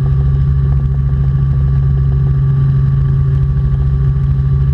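Robinson R44 Clipper II helicopter in cruise: a loud, steady cabin drone of engine and rotors with a constant low hum, unchanging throughout.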